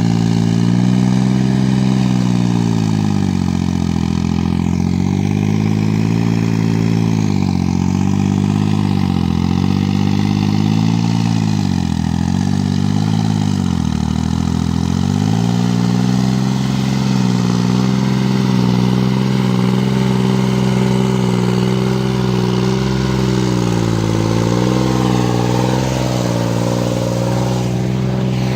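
Kubota 2202 four-wheel-drive compact tractor's diesel engine running. Between about 3 and 16 seconds in, its speed sags and recovers several times, as if it is being loaded and then freed. After that it holds a steady speed.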